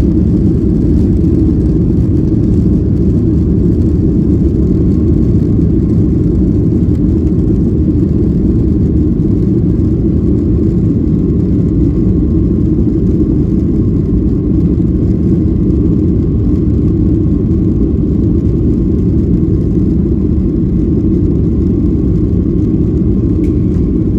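Steady low rumble of a Boeing 737-800's CFM56 jet engines and airflow, heard inside the passenger cabin.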